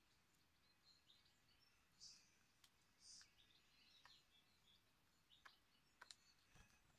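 Faint scattered chirps and short sharp calls of small songbirds over a quiet outdoor hiss, with a soft low thump near the end.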